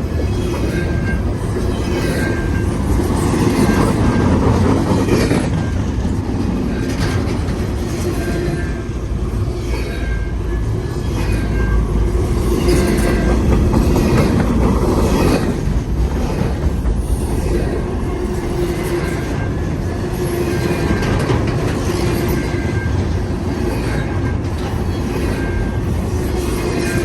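Intermodal freight train cars rolling past at close range: a steady rumble with rapid clicking of wheels over the rails and a faint squeal from the wheels that comes and goes.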